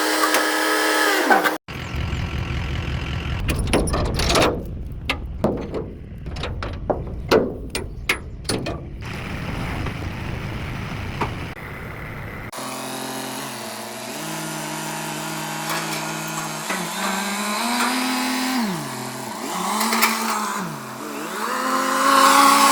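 Tractor engine running and changing speed, its pitch rising and falling. Clanks and knocks come in a quick run in the first half.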